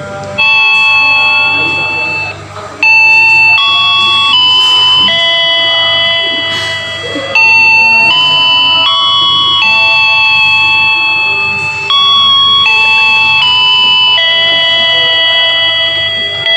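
Electronic chime melody for a train announcement: a slow tune of held, bell-like notes, each lasting about a second before the next one sounds.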